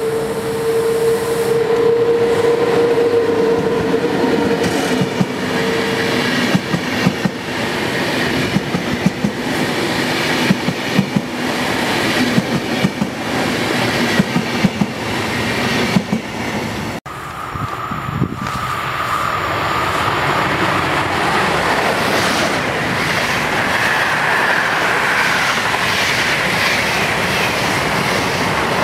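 An SBB Re 460 electric locomotive hauling double-deck coaches rolls through a station. It starts with a steady whine, then comes a quick run of clicks as the wheels pass over rail joints. After an abrupt cut, another passenger train runs past with a rumble and a high squeal.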